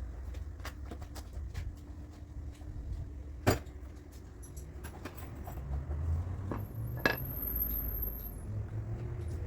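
Light metal clinks and taps, scattered and irregular, with two sharper knocks about three and a half and seven seconds in, over a low steady rumble.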